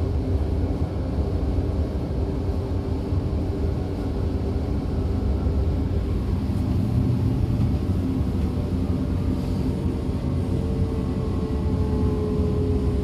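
DB Class 425 electric multiple unit heard from inside the carriage while under way: a steady running rumble of wheels and bogies. From about halfway through, a whine from the electric traction equipment rises slowly in pitch as the train gathers speed.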